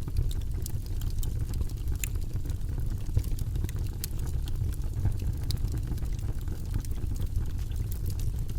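Campfire crackling: frequent small sharp pops and snaps over a steady low rumble.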